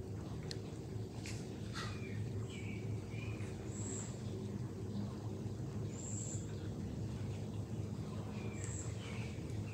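Small birds chirping, with short calls and a brief high note that recurs every couple of seconds, over a steady low hum.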